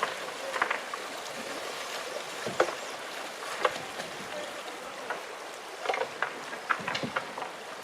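Fast river water rushing steadily, with a few short, sharp knocks and clicks scattered through it.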